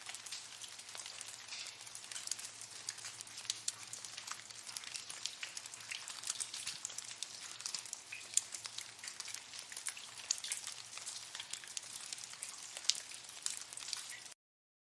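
Many water drops dripping and splashing in a cave: a dense, steady patter of small ticks, many each second, like rain. It cuts off suddenly near the end.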